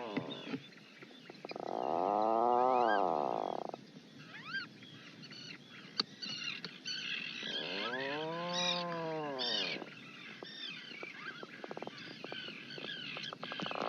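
Auk calling: two long moaning calls, each about two seconds, rising then falling in pitch, with many short high chirps and peeps between them.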